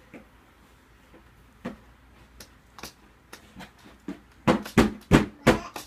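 Scattered light clicks and knocks, then a quick run of about five louder knocks near the end.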